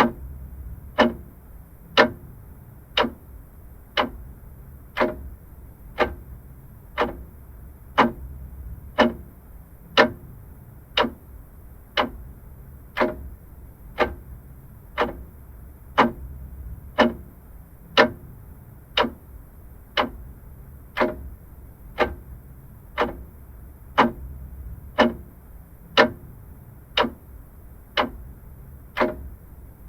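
Vintage clock ticking steadily, one sharp tick about every second at an even pace.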